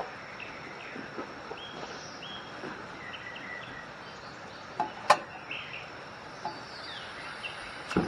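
Outdoor ambience of small birds chirping and a steady high insect buzz, broken by a few sharp clicks, the loudest about five seconds in.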